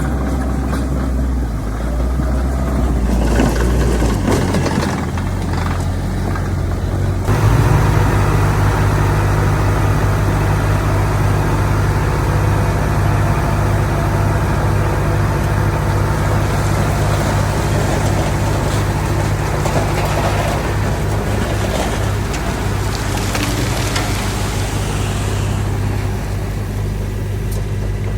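Heavy earthmoving machinery's diesel engine running steadily; about seven seconds in its pitch steps up and it gets louder, then holds at the higher speed.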